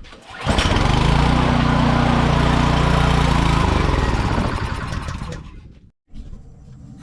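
Craftsman snowblower's small engine catching suddenly and running steadily for about three seconds, then dying away over the next two: it will not keep running and stalls, with the carburetor still suspect.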